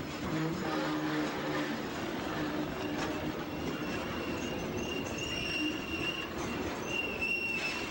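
Freight train rolling past with a steady rumble, and a high wheel squeal that comes and goes from about halfway through.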